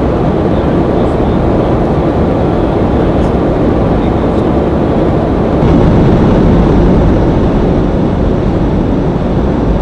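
Steady in-flight cockpit noise of an E-3 Sentry climbing after takeoff: airflow and its four TF33 turbofan engines as a dense, loud noise, stepping up in level a little over halfway through.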